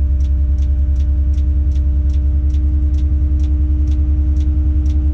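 The Tadano 180G-5 crane's engine runs steadily, heard from inside the cab with a steady hum, under a regular ticking of about two and a half ticks a second.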